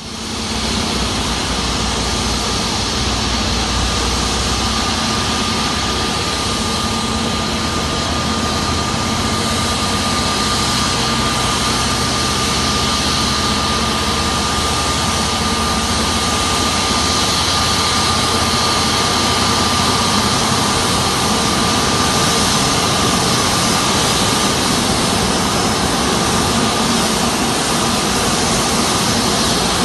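Jet airliner engines running at low power while taxiing: a steady loud rumble and hiss with a thin high whine that fades out about three-quarters of the way through.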